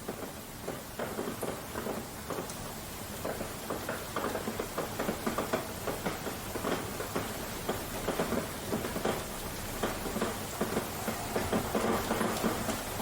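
Steady rain falling, with many separate drops striking, slowly building in loudness.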